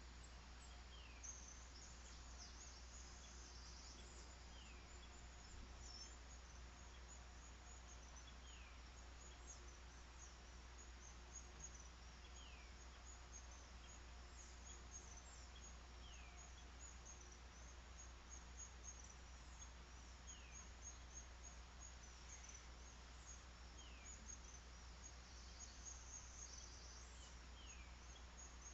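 Faint rural outdoor ambience: a bird repeats a short falling whistle about every four seconds over a constant high chirping of insects and small birds, with a steady low hum underneath.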